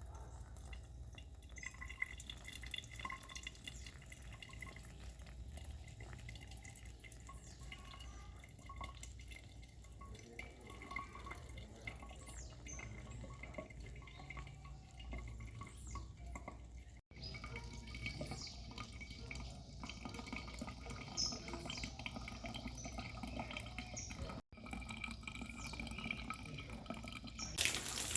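Water dripping in scattered small drops over a steady low rumble. Near the end a louder, even hiss of rain sets in.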